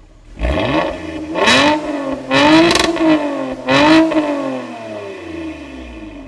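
Toyota Camry TRD's 3.5-litre V6 revved through a modified exhaust: three quick rev blips, each climbing and falling back, then the revs sink back down toward idle.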